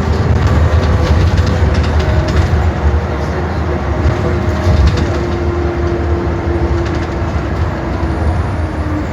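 Scania K 360 city bus running, a steady low drone with a faint whine held above it that sags slightly in pitch near the end, and a few light clicks and rattles.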